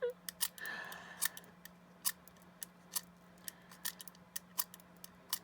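Knife blade shaving wood from a coloured pencil by hand: a longer scrape early on, then a series of short, sharp scraping strokes about one or two a second.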